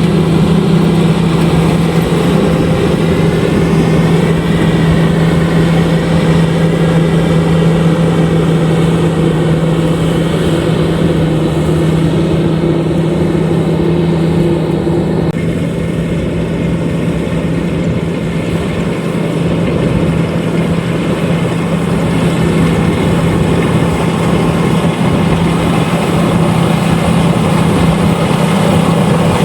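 LOVOL RG130EVO combine harvester running steadily, a constant loud engine hum with machinery noise over it, easing slightly about halfway through.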